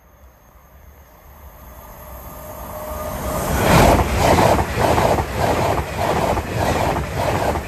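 An LNER passenger train approaching and passing at speed. The sound builds steadily to a peak about four seconds in, then settles into a rhythmic clatter of wheels on the rails, about two beats a second.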